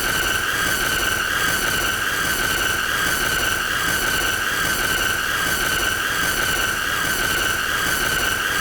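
A continuous high-pitched squealing tone, steady in pitch, with a fainter higher tone above it and a rough hiss underneath: a looped annoying sound effect.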